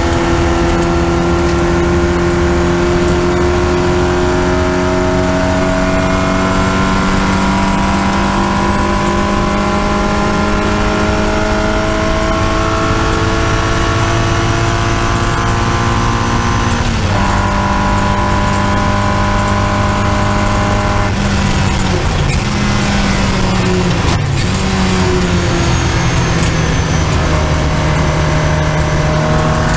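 Triumph Spitfire race car's four-cylinder engine heard from on board, pulling hard with the revs climbing slowly for the first half. The revs dip briefly a little past halfway, fall in steps about three-quarters in as it changes down, and climb again near the end.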